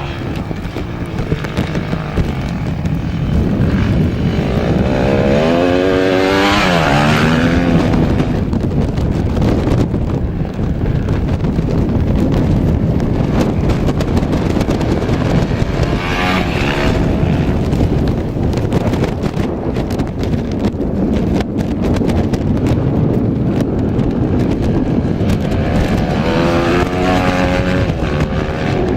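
Rally motorcycles and quads going past, three passes about ten seconds apart, their engines revving up and down through the gears. A constant rumble of wind on the microphone runs underneath.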